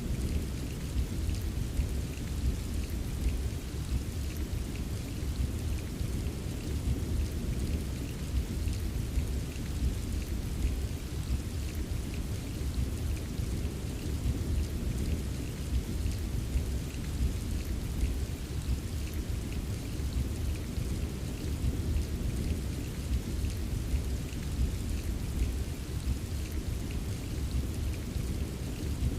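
Steady rain with fine drop taps, over a low, continuous rumble of gentle rolling thunder; no single sharp thunderclap.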